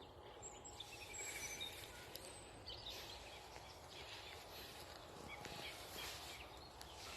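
Faint birdsong from several songbirds: short high chirps and calls, with a quick trill about a second in, over a quiet steady background of outdoor noise.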